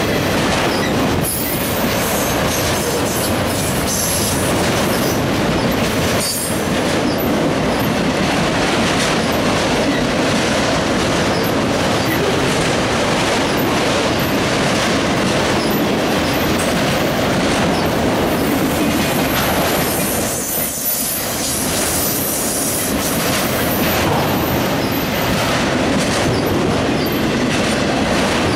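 Autorack freight cars rolling past close by: a steady rumble of steel wheels on rail with clicking over the rail joints and a thin high-pitched wheel squeal at times. There is a brief lull about two-thirds of the way through.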